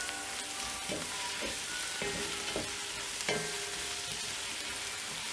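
Onions, green chillies, mint and ginger-garlic paste sizzling in hot oil in a pot while a wooden spatula stirs them, with soft scrapes of the spatula through the sizzle. The paste is being fried until it loses its raw smell.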